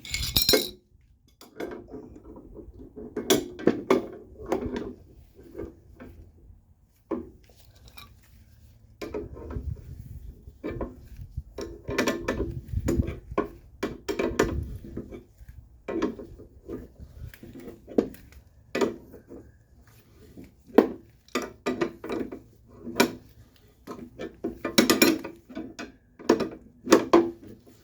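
Irregular metallic clinks and clanks of wrenches working the bolts of a two-piece coil spring compressor on a car strut, with metal tools and parts knocking together as the spring is drawn down.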